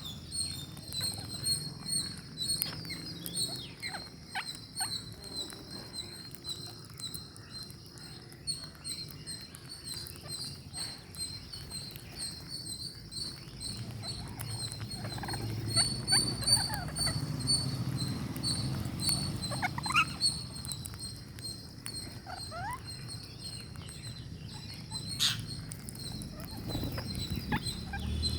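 Ring-necked parakeets making a steady, pulsing high chatter, with short squeaky chirps and small clicks scattered through it.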